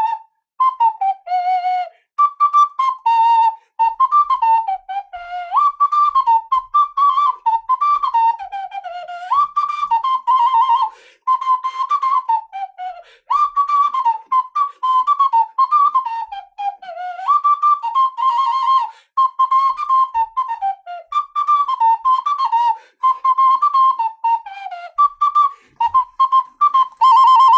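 Small ocarina playing a lively melody in short phrases of quick, gliding notes, ending on a long held note.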